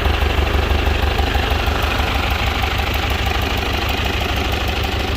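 Ford 801 Powermaster tractor's four-cylinder engine idling with a steady, even low beat moments after starting. It purrs like a kitten, the sound of an old engine in good running order.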